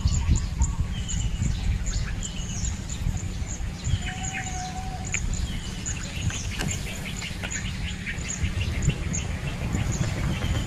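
Birds chirping, many short high twitters throughout, with one short call at a steady pitch about four seconds in, over a steady low rumble of background noise.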